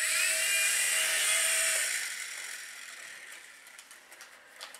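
Small electric motors of a micro RC helicopter whining at high pitch. The whine holds steady for about two seconds, then dies away as the rotors spin down.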